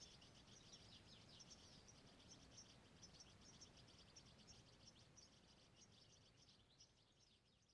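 Faint birdsong: a dense, continuous run of short high chirps from several small birds over low outdoor background noise, fading away near the end.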